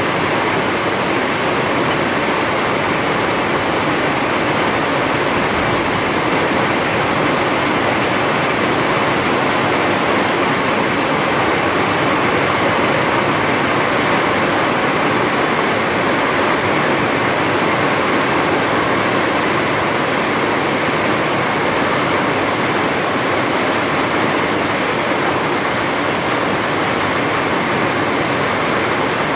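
Steady rain, a dense even hiss with no single drops, thunder or other sounds standing out.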